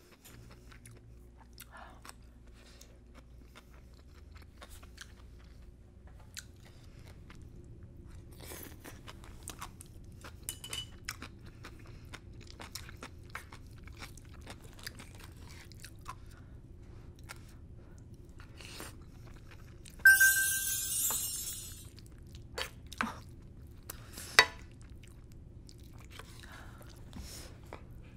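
Close-miked chewing and crunching of black bean sauce fried rice, with many small clicks of a wooden spoon and chopsticks against the pan. About twenty seconds in comes a louder clatter with a short ring lasting about a second and a half, and a sharp click a few seconds later.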